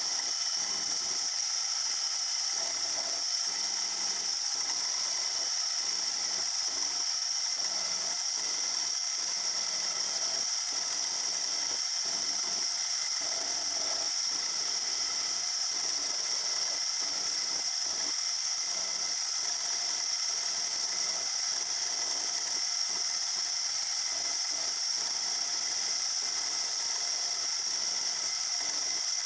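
Small metalworking machine tool running during machining: a steady high whine over a fast, irregular gear-like rattle.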